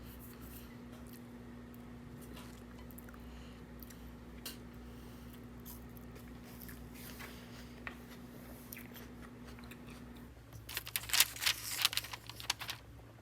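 Crunchy food being bitten and chewed: scattered faint crunches, then a burst of loud crunching over the last few seconds. A steady low hum in the background cuts off about ten seconds in.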